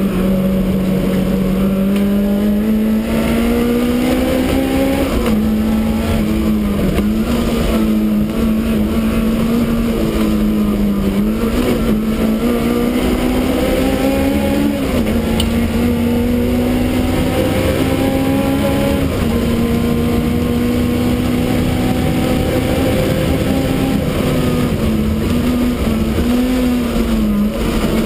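Supercharged BMW E30 race car's engine running hard at high revs, heard from inside the stripped cabin. Its pitch climbs under throttle and dips briefly several times as the driver shifts and lifts for corners, over steady road and wind rumble.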